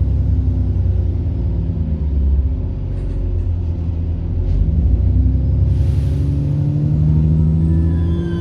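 Diesel engine of a service bus heard on board, running steadily with a low rumble whose pitch rises and falls with load. A short hiss comes about six seconds in.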